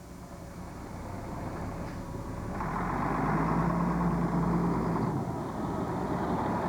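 A car running close by, growing louder over the first three seconds and then holding steady with a low hum under the noise.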